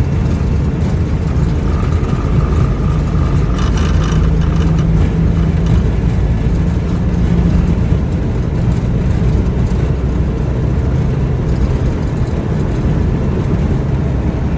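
Steady loud rumble and rush of engine and airflow noise inside an Airbus A321 flight deck during the climb after takeoff, with a faint thin tone for a few seconds near the start.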